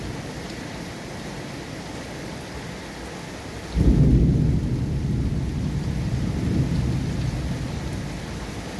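Steady rain with a roll of low thunder breaking in sharply a little under four seconds in, then slowly rumbling away.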